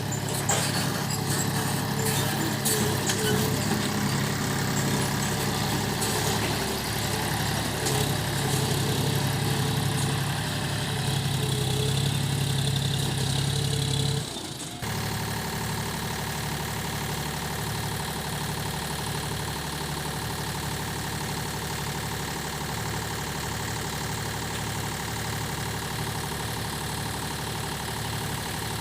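Heavy diesel machinery engine running steadily. About halfway through, the sound changes abruptly to a steadier, evener engine note, as at a cut between takes.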